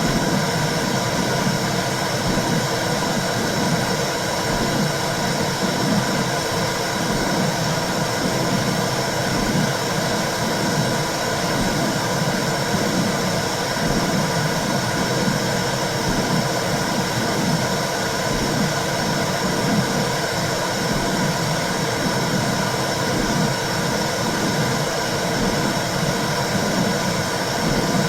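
Womb sound for soothing babies: a steady whooshing noise with a low, uneven rumble underneath.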